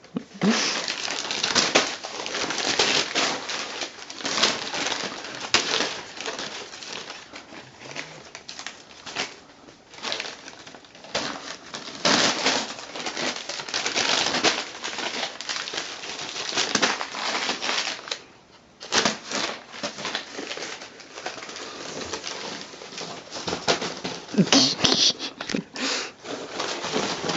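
A paper advertising flyer rustling and crinkling in irregular bursts as a cat bats, grabs and bites at it.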